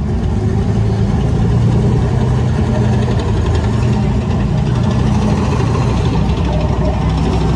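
A vehicle engine running steadily: a low, even hum that holds level without revving up or dying away.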